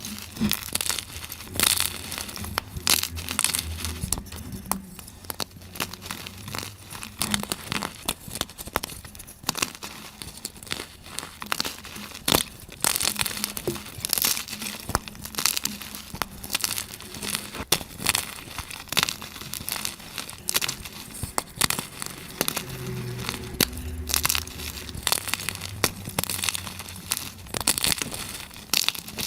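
Blocks of gym chalk being crushed and crumbled, a dense run of dry crunches and crackles, sped up so that they come thick and fast.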